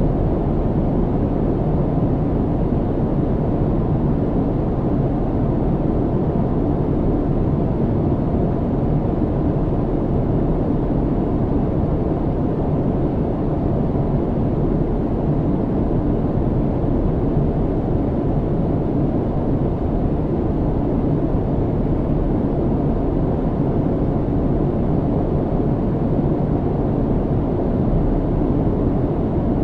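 Airplane cabin noise in flight: a steady, even, low rumble with no separate events.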